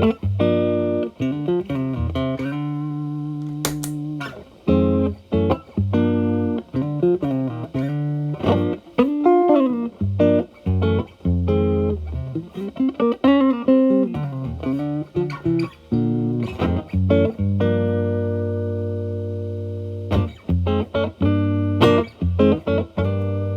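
Telecaster electric guitar played through a Marshall Valvestate amp's clean channel, dry at first and then through an Xotic BB Preamp overdrive pedal set to zero gain, so the tone stays nearly clean. The playing is short picked phrases and ringing chords, some held for a couple of seconds, with a sharp click about four seconds in.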